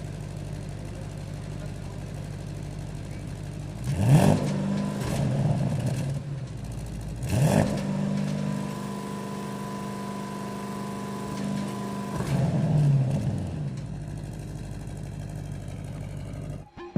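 Porsche Panamera Turbo's twin-turbo V8 idling, revved sharply once about four seconds in, then revved again and held at a raised steady speed for several seconds before dropping back to idle.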